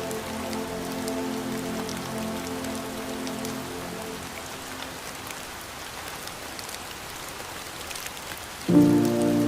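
Steady rain patter with scattered drop ticks, under slow ambient music whose sustained chords fade out about four seconds in and come back suddenly and louder near the end.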